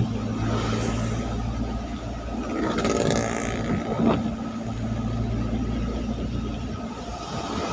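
Road traffic on a wet road: a steady low engine hum, with vehicles passing and their tyres hissing on the wet surface, most strongly around three to four seconds in.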